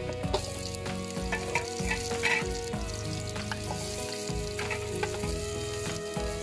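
Hot oil sizzling in an aluminium pot as sliced red onion and garlic are dropped in with ginger and stirred, with scattered clicks and scrapes of a wooden spatula against the pot.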